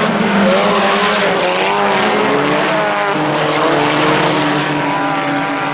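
A pack of IMCA Sport Compact race cars running hard together, their four-cylinder engines making several overlapping tones that rise and fall.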